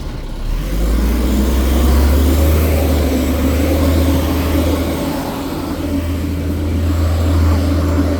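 Garbage truck engine revving up about half a second in and held at high revs while working its trash compactor.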